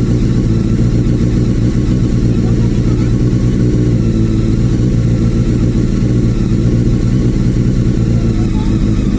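Honda CBR 954 RR's inline-four engine idling steadily, its pitch and level even throughout.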